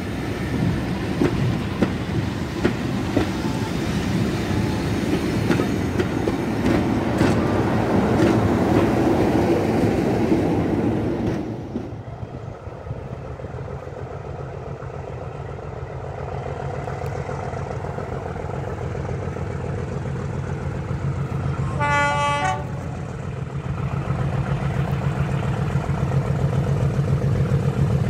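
Passenger coaches rumbling past close by, wheels clicking over the rail joints, until a sudden change about 11 seconds in. Then a diesel locomotive approaches from a distance, sounding one short horn blast about 22 seconds in, its engine rumble growing louder toward the end.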